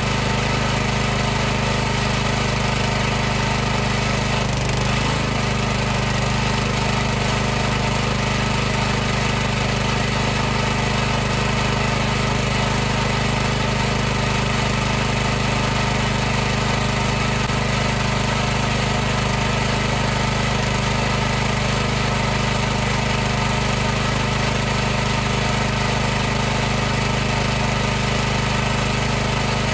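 High-pressure washer's motor and pump running steadily: a constant hum of several low tones over an even hiss, with a brief dip in pitch about five seconds in.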